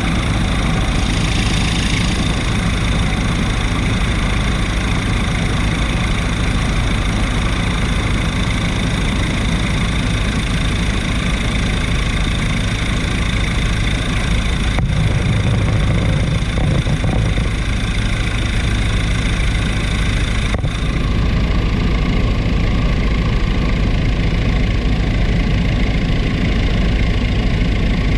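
Helicopter in flight: engine and rotor noise running steadily and loudly, a low hum with several held tones layered over it.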